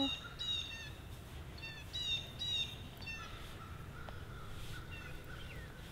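Birds calling in the distance: short, high, downward-slurred calls in quick groups of two or three, one group at the start and another about two seconds in.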